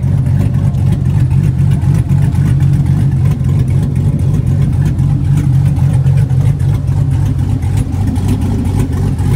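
A car engine idling with a steady, deep drone.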